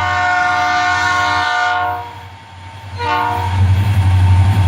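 Nathan P3 air horn on Florida East Coast SD40-2 locomotive 709 sounding a blast of about two seconds, then a second blast a second later. From about three and a half seconds the diesel locomotive's loud low rumble builds as it passes close by.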